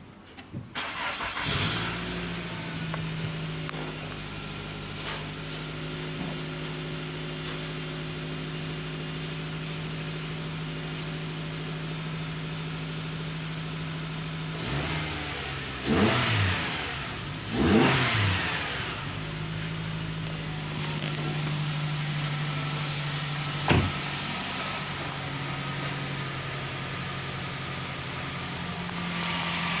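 Nissan X-Trail engine starting up and settling into a steady idle, then revved twice in quick succession about halfway through before dropping back to idle. A single sharp tap is heard about three quarters of the way through.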